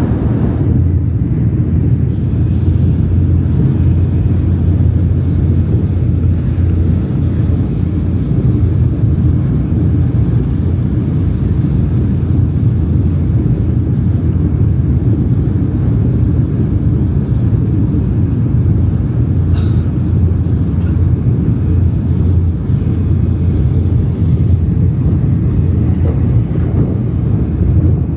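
Shinkansen bullet train in motion: a steady low rumble with a few faint ticks.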